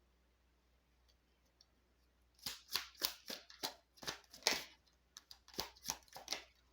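A deck of oracle cards being handled: a run of about a dozen sharp card clicks and slaps, starting about two and a half seconds in.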